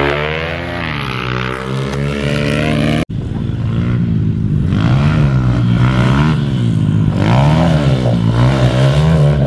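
Minibike engines revving hard off the start, their pitch climbing and dropping through gear changes and throttle. A sudden break about three seconds in, then the revs swell and fall back roughly once a second.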